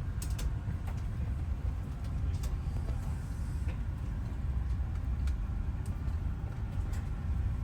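Steady low rumble of an Airbus A350-1000 cabin's air-conditioning and ventilation while the aircraft is parked and being refuelled, with a few faint clicks.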